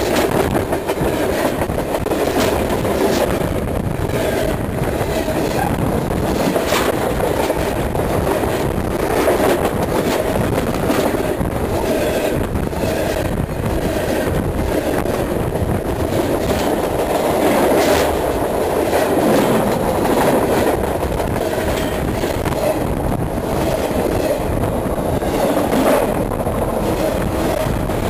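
Train cars rolling directly over a microphone lying between the rails: a loud, steady rumble of wheels on track, broken by sharp clicks as the wheels cross rail joints.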